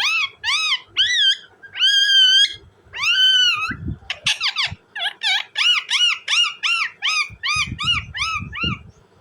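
Indian ringneck parakeet calling: several drawn-out, arched squawks, then from about four seconds in a rapid run of short, shrill calls, about two to three a second. Low thumps sound beneath some of the later calls.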